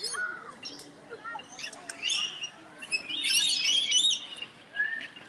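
Flock of lorikeets chattering with many overlapping shrill calls, loudest and densest about three to four seconds in.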